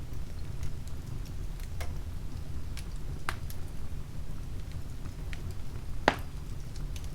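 Oak logs and twigs burning in a wood fireplace: a steady low rumble of the fire with scattered sharp crackles, and one louder pop about six seconds in.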